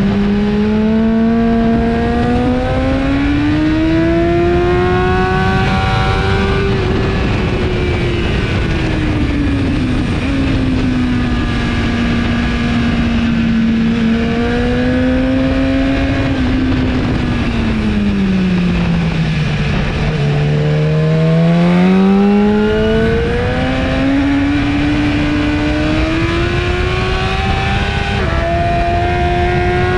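2017 BMW S1000RR inline-four sport-bike engine through an Akrapovic exhaust, heard onboard at track speed with steady wind rush. Its pitch climbs, holds, falls to its lowest about twenty seconds in, then climbs again through a gear change near the end.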